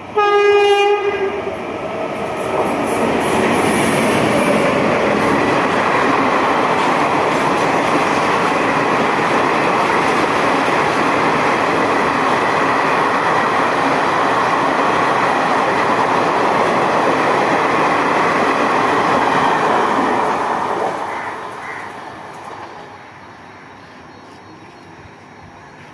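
A locomotive horn sounds one short blast, then an Indian Railways express train passes at speed. The wheels run on the rails in a loud, steady rush for about twenty seconds, which fades away near the end.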